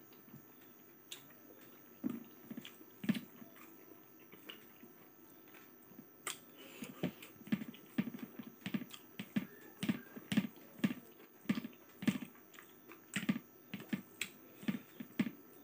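A person chewing a mouthful of food with wet, smacking mouth clicks. They are sparse at first, then come in a steady run of about two to three a second from about six seconds in.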